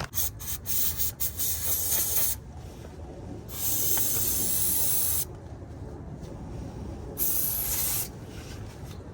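Hissing, scraping noise in three bursts from work on the threads of a damaged wheel stud: first a choppy run of short strokes, then a steady burst of about a second and a half, then a shorter burst near the end.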